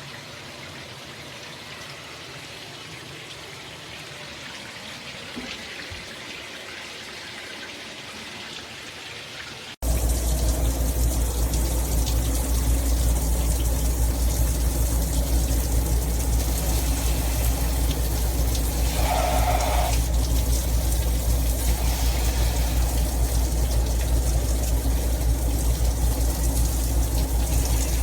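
Brass high-flow shower head spraying water steadily. About ten seconds in it cuts abruptly to a much louder, full-pressure rush of spray with a low rumble underneath.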